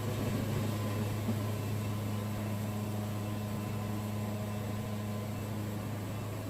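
Wood-Mizer sawmill's engine running steadily at idle: a low, even hum with no cutting.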